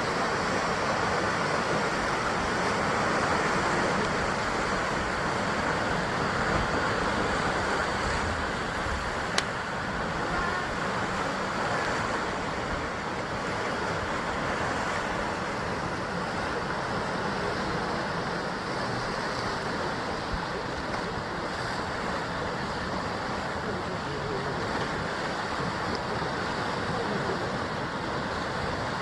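Sea surf washing against the rocky basalt shore in a continuous, even roar of water noise. A single sharp click about nine seconds in.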